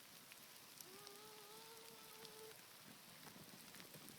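Faint rain: an even patter with light drop ticks. About a second in, a faint steady hum-like tone sounds for under two seconds.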